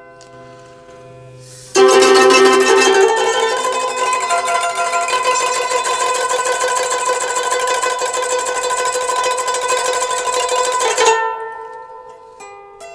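Plucked string instrument music: soft held notes, then about two seconds in a sudden loud passage of rapid tremolo plucking that lasts until near the end, where it drops back to quieter single notes.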